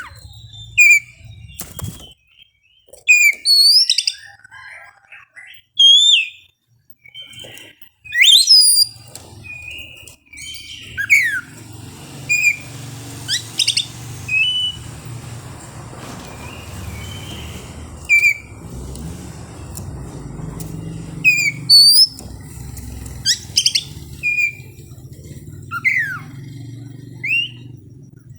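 Oriental magpie-robin (kacer) singing: a varied run of loud, sharp whistled notes and quick up-and-down glides, given in separate phrases with short pauses. A low steady hum runs underneath from about a third of the way in.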